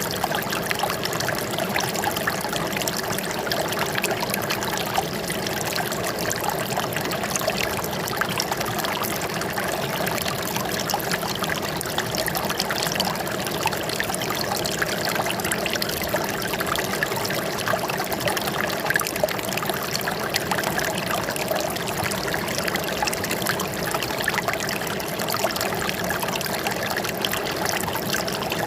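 Running water trickling and splashing steadily, a close, busy babble with no let-up.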